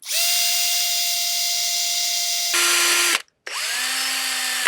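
Electric drill with a new cobalt bit drilling out a broken bolt in a two-stroke outboard's engine block. It runs steadily, drops in pitch and gets a little louder about two and a half seconds in, stops briefly, then spins back up and runs on.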